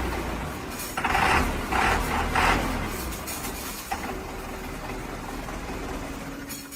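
Dump truck engine running with a steady low rumble, with three short bursts of hissing noise in quick succession about a second in.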